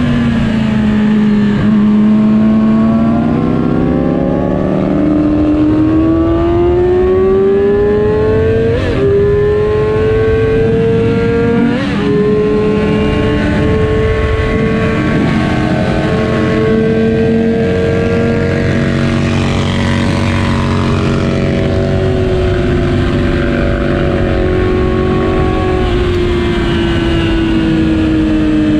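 2007 Yamaha R6's inline-four engine at full song on a racetrack, pulling up through the revs with two brief breaks at upshifts about 9 and 12 seconds in, holding high, then dropping in pitch as it slows near the end. A steady rush of wind noise runs underneath.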